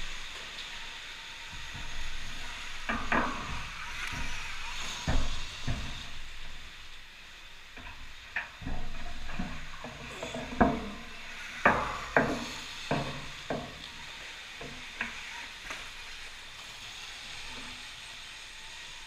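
Irregular knocks and clatters over a steady hiss, with the loudest knocks bunched together around the middle. This fits an electric motocross bike being ridden over a dirt track: the knocks are suspension and chassis, the hiss is tyres and chain, and there is no engine note.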